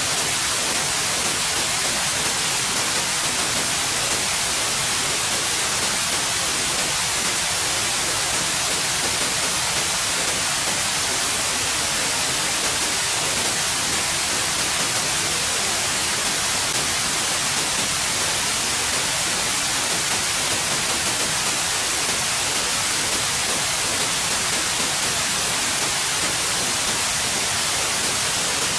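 Steady white noise: an even, unchanging hiss across the whole range, strongest in the highs.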